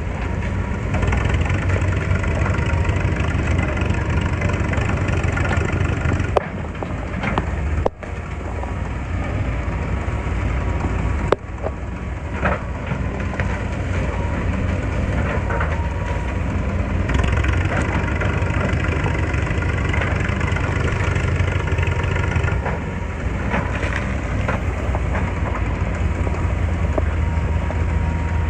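Excavator's diesel engine running steadily under work, a deep even hum, with a few sharp knocks and clanks of the machine working.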